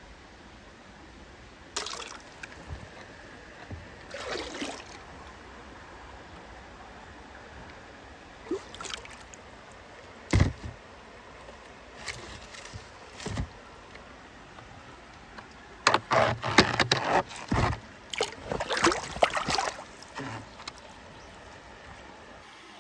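Shallow water sloshing and splashing in short irregular bursts, sparse at first and then a busy flurry of splashes a few seconds long.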